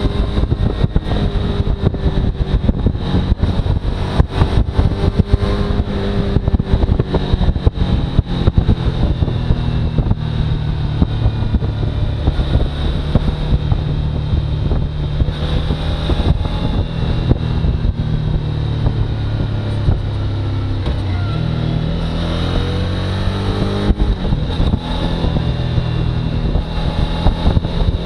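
Suzuki V-Strom motorcycle engine running under way, with wind noise on the microphone; the engine pitch shifts as it rides and dips briefly then climbs again about two-thirds of the way through.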